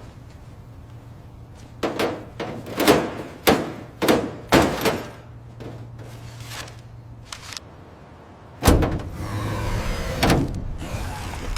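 Sound-effect heavy metallic clanks and thuds: about five hard hits in quick succession from about two seconds in, each with a short ringing tail. A louder boom near the end is followed by a rumbling mechanical noise.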